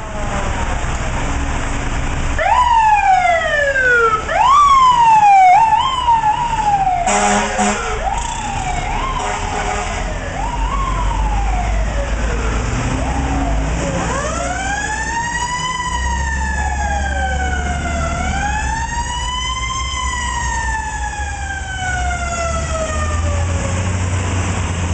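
FDNY fire engine and ladder truck sirens on an emergency response. Quick rising sweeps, each followed by a slower fall, repeat every second or two. A short horn blast comes about seven seconds in, then slower rising and falling wails take over, all over a steady engine rumble.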